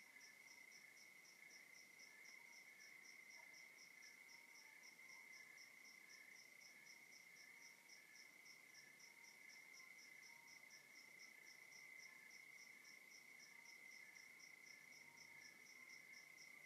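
Faint night chorus of crickets: one steady, unbroken high trill, with a second insect chirping in an even pulse about three times a second.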